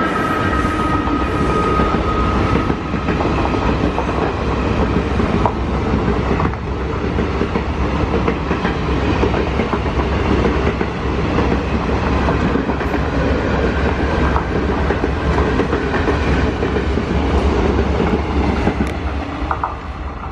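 Passenger coaches of an express train passing at speed: a steady loud rumble with wheel clatter and knocks over the rail joints. The last of a horn note dies away in the first two seconds, and the noise falls off near the end as the tail of the train passes.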